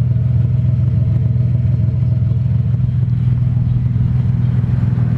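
Ford 4.0-litre single-overhead-cam V6 idling steadily through a Dynomax Bullet race muffler, with the stock catalytic converters and resonator still in place. The exhaust has a deep, even burble, settled at normal idle speed after the cold start's fast idle.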